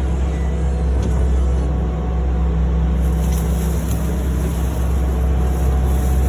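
A steady, loud low hum and rumble with a constant deep tone, like a running motor or vehicle.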